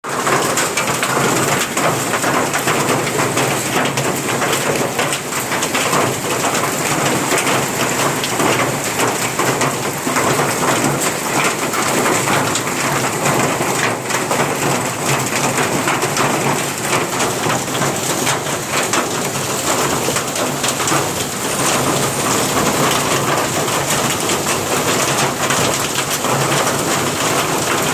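Hail and heavy rain falling, a steady dense hiss crossed by countless small, sharp impacts of hailstones striking surfaces.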